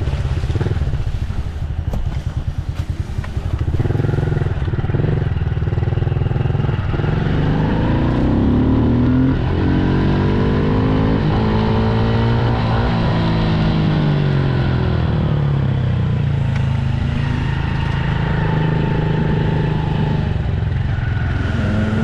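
Dirt bike engine running while being ridden. About eight seconds in its pitch climbs as it speeds up, then falls away again a few seconds later, and it starts to rise again near the end.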